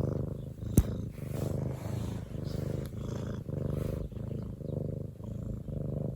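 Domestic cat purring close to the microphone, a steady low purr pulsing in cycles of about half a second as it breathes in and out. A single sharp click comes about a second in.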